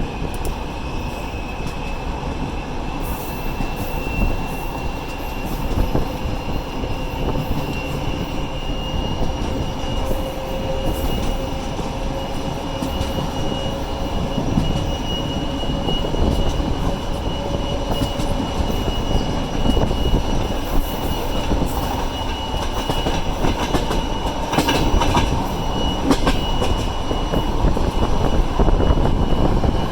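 Passenger train hauled by a TEP70 diesel locomotive pulling away: steady rolling noise with a high whine that slowly rises in pitch as it gathers speed, and a run of sharp clicks from the wheels near the end.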